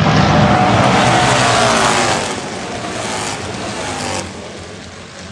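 Harley-Davidson bagger race bikes (V-twin Road Glides) passing at racing speed. The engine note falls in pitch as they go by, then fades away over the next few seconds.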